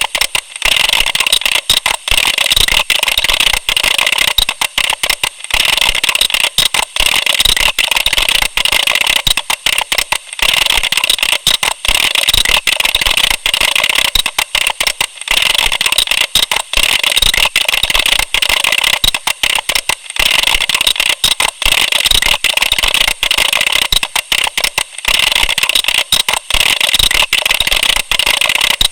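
Computer keyboard keys clicking in fast, continuous typing, many keystrokes a second without a break.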